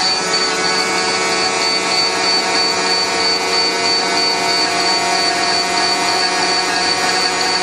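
School bus warning buzzer sounding continuously, a steady high-pitched tone. With the key on, it is the alarm for the open emergency exit door.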